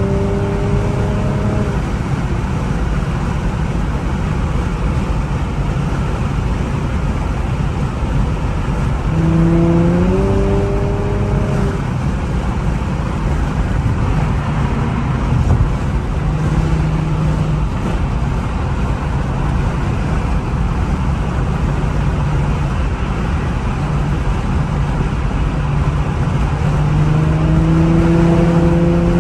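2007 Infiniti G35 Coupe's 3.5-litre V6 through a Motordyne exhaust, heard from inside the moving car with road and wind noise through the cracked windows. The engine note climbs in pitch as it accelerates about nine seconds in and again near the end.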